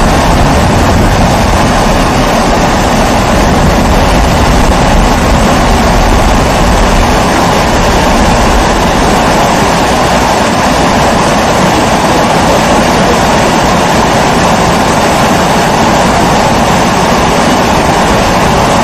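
Kerosene pressure stove (primus-type babour) burner running with a steady, even rushing noise, with a low rumble that eases off about halfway through.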